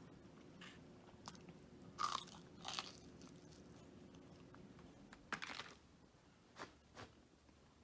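Close-up biting and chewing of crispy fried breaded food, heard as a few separate short crunches, the loudest about two seconds in. A faint steady hum runs underneath and stops about five seconds in.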